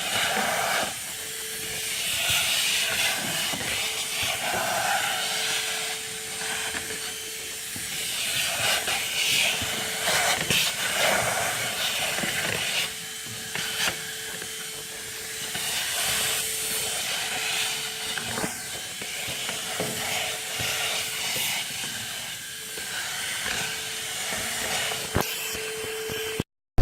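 AUDEW cordless handheld vacuum running, a steady motor whine under rushing air that rises and falls as the nozzle moves over the truck's floor, with occasional clicks of debris. The sound cuts off abruptly near the end.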